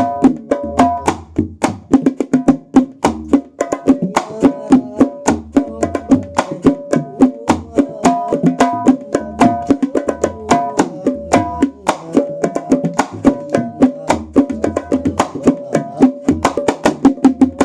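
Terbang frame drums played in a fast, steady rhythm, sounding a new tirintit frame drum: sharp ringing slaps over recurring deep bass thumps.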